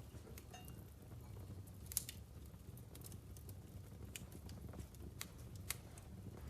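Wood fire in a fireplace crackling: irregular sharp pops from the burning logs, the loudest about two seconds in, over a low steady rumble.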